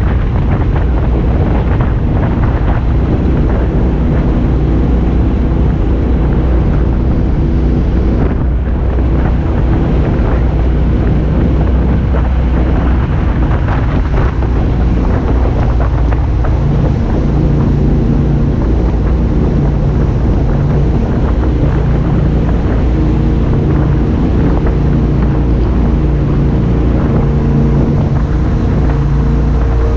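An 800-horsepower jet boat's engines running steadily under way, with wind buffeting the microphone.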